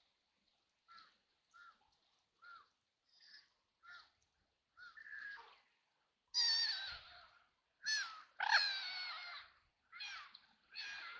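White ducks quacking: a run of short, soft quacks about every half second, then from about six seconds in, several louder, longer, harsh quacks.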